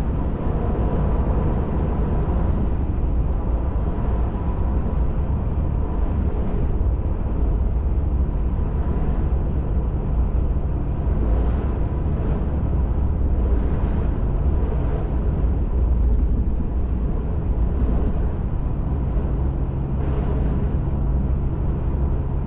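Ford F-150 Raptor pickup driving on a back road, with steady engine and tyre rumble and a faint steady hum. A few brief rushes of higher-pitched noise come through the middle and near the end.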